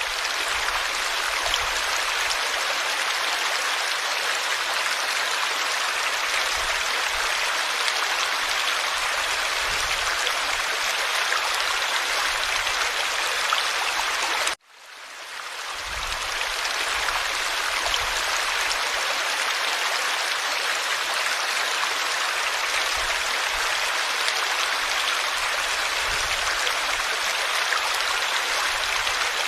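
Forest stream water rushing and babbling steadily. Near the middle the sound cuts out suddenly and fades back in over a second or two.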